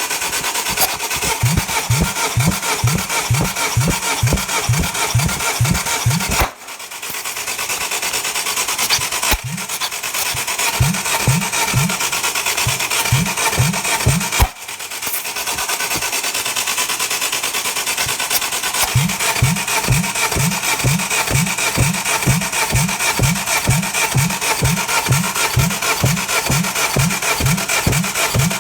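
Starter motor cranking a Hyundai/Kia G4JP 2.0 DOHC 16-valve four-cylinder engine for a compression test, with a rhythmic low pulse about three times a second over a grinding whir. The cranking comes in three runs, breaking off twice.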